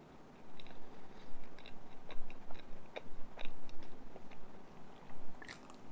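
Close-up chewing of a soft, chilled cream-filled bread: irregular wet smacks and clicks of the mouth, starting about half a second in.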